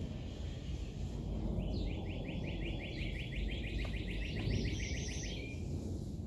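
A bird singing one rapid trill of about nine notes a second, lasting nearly four seconds and starting about a second and a half in, over a low steady outdoor rumble.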